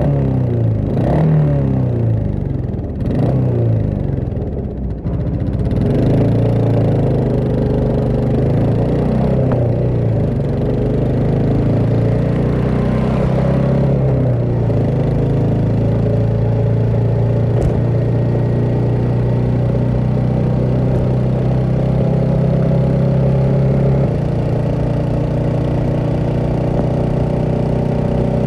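Royal Enfield Meteor 350's single-cylinder engine running through a slip-on silencer. In the first few seconds it accelerates, its pitch rising and dropping several times. It then holds a nearly steady note at a steady pace, with a slight change in note about 24 seconds in.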